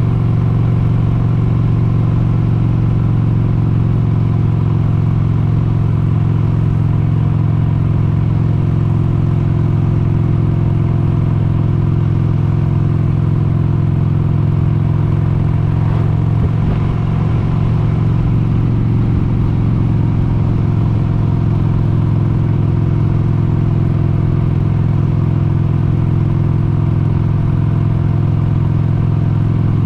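1996 Harley-Davidson XLH883 Sportster's air-cooled Evolution 883 cc V-twin running steadily under way on the road. There is a brief easing about seventeen seconds in, then it runs on at the same steady pitch.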